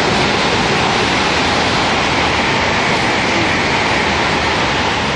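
Shinkansen bullet train passing at high speed on the track beside the platform: a loud, steady rushing noise.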